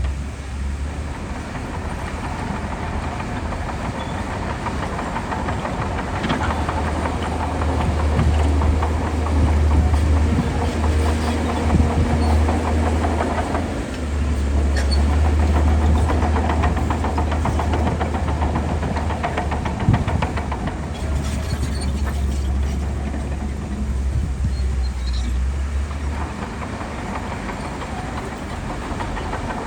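Heavy diesel earthmoving machinery running under load, a deep engine rumble that swells and eases several times, with a single sharp knock about twenty seconds in.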